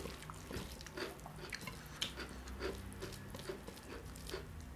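Quiet, close-miked eating sounds: wet chewing smacks and small mouth clicks, coming irregularly a few times a second.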